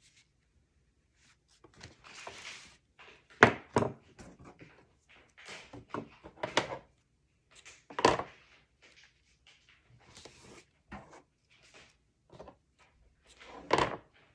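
Paper and cardstock being handled and folded on a work table: bursts of rustling with a few sharp taps and knocks, the loudest about three and a half seconds in, around eight seconds, and near the end.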